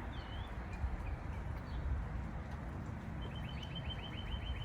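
Songbirds calling outdoors: a single chirp at the start, then a fast trill of repeated high notes, about eight a second, from about three seconds in, over a steady background hiss and low rumble.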